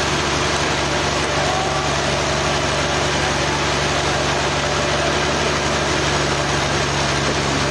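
Sawmill engine running steadily at one constant speed, a continuous even hum with no revving or strain.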